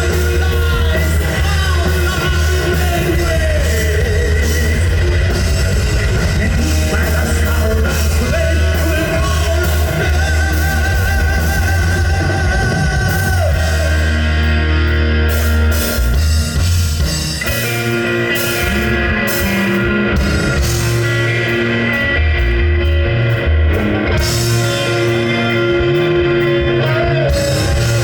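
Live heavy metal band playing: distorted electric guitars, bass and drum kit with singing. A wavering melodic line over a steady low bass gives way, a little past the middle, to a choppier driving rhythm.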